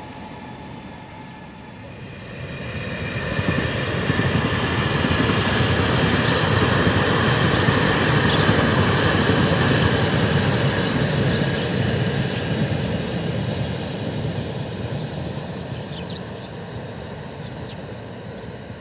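Taiwan Railways EMU800 electric multiple unit passing at speed. The steady noise of the train running on the rails swells from about two seconds in, holds loud for several seconds, then fades as the train moves away.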